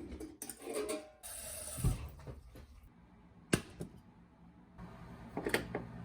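Household handling noises: scattered knocks and several sharp clicks, the loudest about three and a half and five and a half seconds in, with a brief rushing hiss lasting under two seconds from about a second in.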